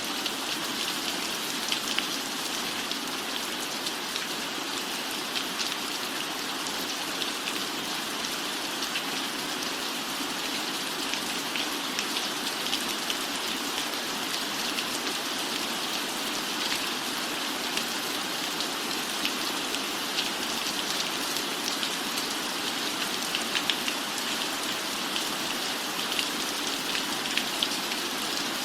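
Steady rain falling, a continuous hiss dotted with many sharp ticks of single drops.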